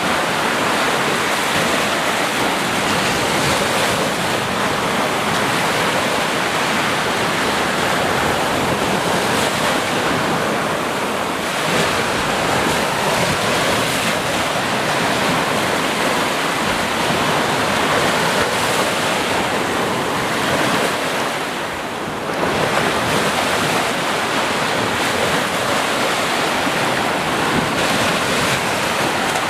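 Sea waves breaking as steady surf, a continuous dense wash of water with a brief lull about three quarters of the way through.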